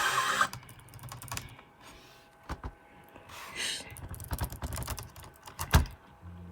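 Music cuts off about half a second in. It is followed by scattered light clicks and taps with a few soft low thumps, and a short hiss a little past the middle.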